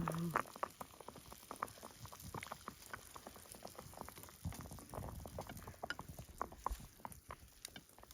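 Pot of Shizuoka oden simmering, its dark broth bubbling with irregular small pops.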